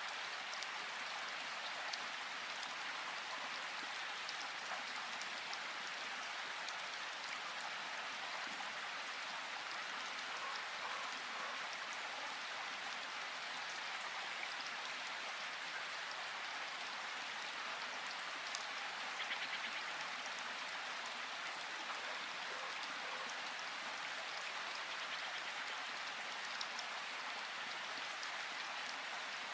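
Rushing water of a river, a steady even hiss with small scattered splashes.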